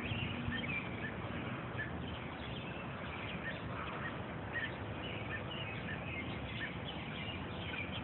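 Small birds chirping, many short high chirps repeated through the whole stretch over a steady background hiss.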